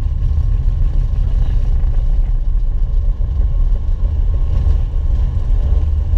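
Steady low rumble of airflow and engines on an Airbus A330-300 flight deck during the climb after takeoff.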